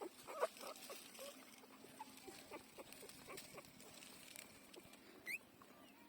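Newborn puppies squeaking and whimpering while nursing: a quick run of short squeaks in the first half second, then scattered fainter ones with soft clicking, and one short high rising squeak near the end.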